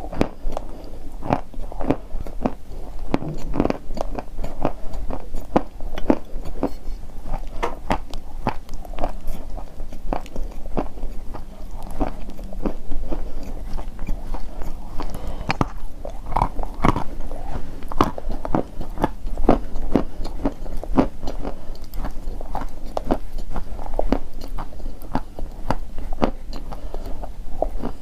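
A person biting and chewing pieces of crunchy chalk, a steady run of sharp, irregular crunches.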